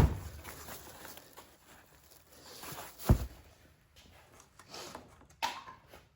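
Handling noises from work on a newly re-covered seat armrest: a sharp knock at the start, a dull thump about three seconds in, and faint rustling and scraping between.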